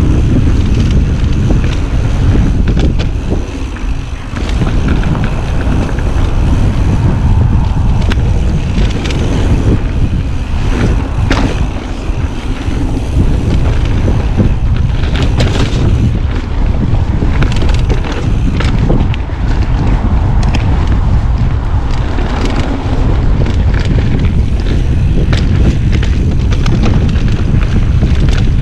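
Wind buffeting the microphone while a mountain bike rides over a rough trail, with a steady low rumble and frequent short knocks and rattles as the bike goes over bumps and rocks.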